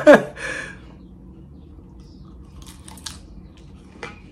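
A short burst of voice at the very start, then a mouthful of romaine Caesar salad being chewed close to the microphone, with a few soft crisp crunches of the lettuce about three seconds in and a single click near the end.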